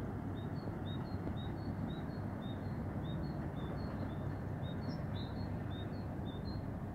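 A small bird singing a quick two-note phrase over and over, a lower note then a higher one about twice a second, over a steady low rumbling noise.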